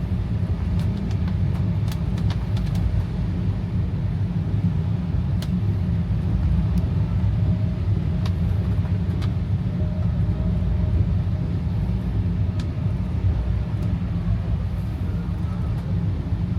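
Steady low rumble of a car driving, heard from inside the cabin, with scattered light ticks that fit raindrops hitting the car.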